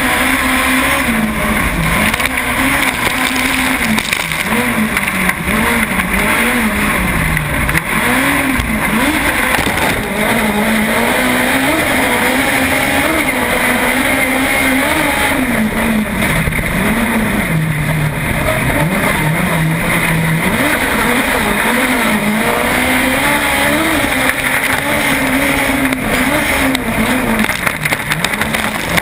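Lowered VW Beetle autocross car's air-cooled flat-four engine, heard from inside the cabin, running hard and revving up and down every second or two under throttle and lifts on a dirt track.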